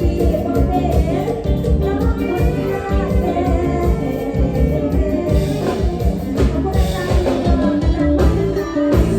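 Live Isan band playing an upbeat toei tune, with a pulsing bass-and-drum beat, a voice singing over it.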